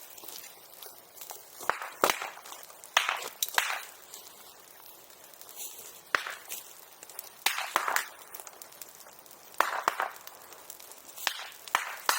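Bonfire of brush and bamboo grass crackling, with irregular sharp pops and short crunching cracks every second or two, some coming in quick pairs.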